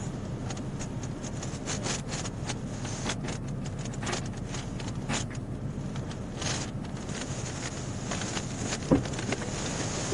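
Steady motor-vehicle rumble with scattered clicks and rustling, and a single sharp knock about nine seconds in.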